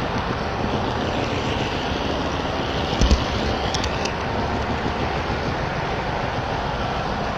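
Train running with a steady rumble and rolling noise, with a brief clatter of clicks about three seconds in.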